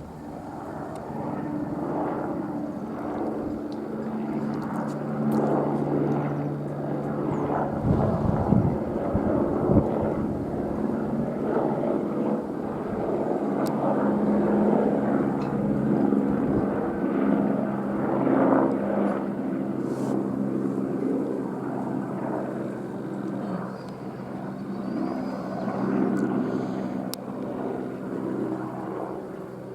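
Airbus AS350 helicopter in flight, its rotor and turbine running steadily. It grows louder over the first couple of seconds and is loudest about eight to ten seconds in.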